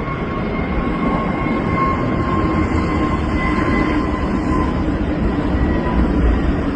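Jet airliner's engines running: a loud, steady roar with a deep rumble and a steady high whine over it.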